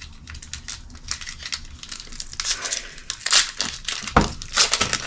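Crinkling and rustling of a foil booster-pack wrapper and plastic packaging as trading cards are handled, in irregular short bursts that grow louder after about three seconds.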